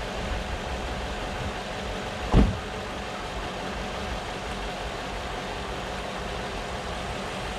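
Mercedes CLK55 AMG's 5.4-litre V8 idling steadily, with one short low thump a little over two seconds in.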